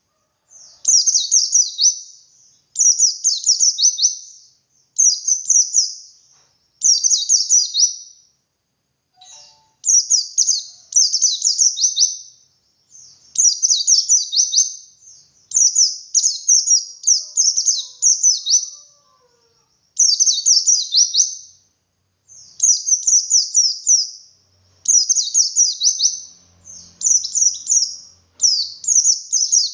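White-eye (pleci dakun) singing its 'ngalas' song with 'wit wit' variations. It sings short, high, twittering phrases of quick falling notes, repeated about every two seconds with brief pauses between.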